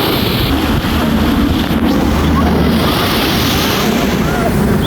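Wind buffeting the microphone over the steady rush of ocean surf, with a heavy low rumble.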